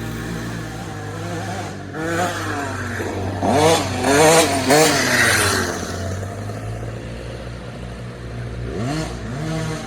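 Motocross dirt bike engine revving, its pitch swinging up and down in several quick throttle blips around the middle, the loudest part, and rising again near the end, over a steady low engine drone.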